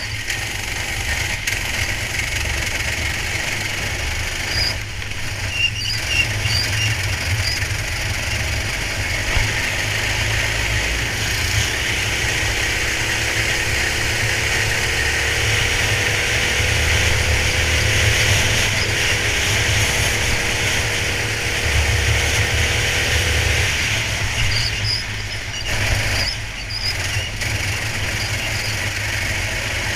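Onboard sound of a racing kart at speed: its engine running steadily, with a constant low rumble and a hiss. About twelve seconds in, a pitched engine note rises slowly for about ten seconds, then cuts off suddenly.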